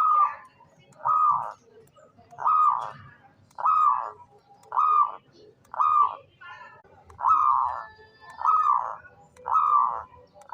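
Local zebra dove (perkutut) singing: a steady series of cooing notes, about one a second, each short and falling at the end.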